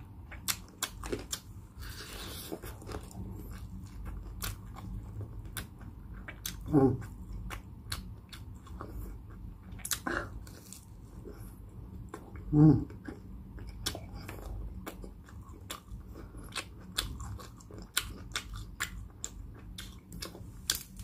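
Close-up biting and chewing of crispy pata, deep-fried pork hock with crackling skin, giving many sharp crunches all through. There are two short voice sounds, about seven and thirteen seconds in.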